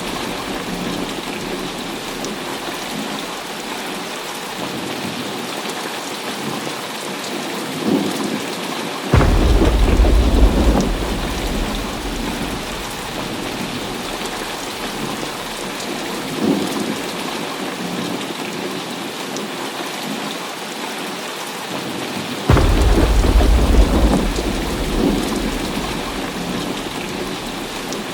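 Heavy rain falling steadily, with two thunderclaps, one about nine seconds in and one about twenty-two seconds in, each starting suddenly with a deep rumble that rolls away over a few seconds.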